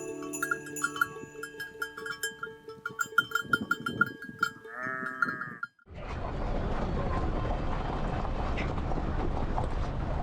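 Bells on grazing livestock clinking and ringing, with a single bleat about five seconds in. After a brief dropout the sound cuts to a steady rushing noise.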